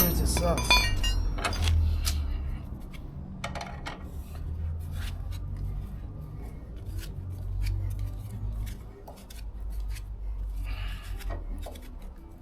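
Metal tools and jack parts being handled during a car tyre repair: a ringing metallic clink at the start, then scattered light clicks and knocks over a low rumble.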